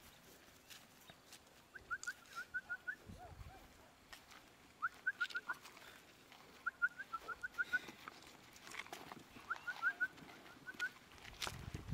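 A bird calling repeatedly: a quick run of five or six short, high chirps, repeated every two to three seconds.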